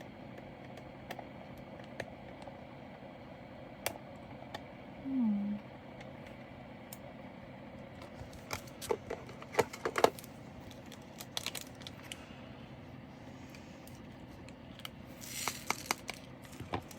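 Leftover resin diamond-painting drills being handled and bagged: small scattered clicks and plastic crinkles, coming in quick clusters about nine to ten seconds in and again near the end, over a faint steady hum.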